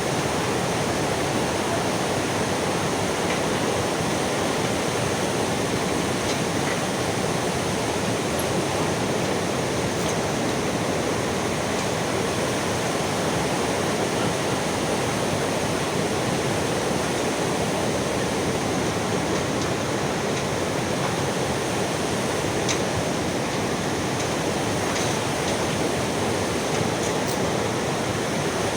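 Heavy rain falling steadily: a constant, even rush with a few faint scattered ticks.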